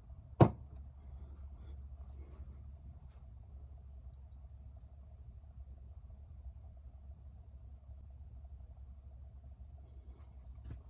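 A single sharp knock about half a second in, over a steady low hum and a steady high-pitched hiss or chirr.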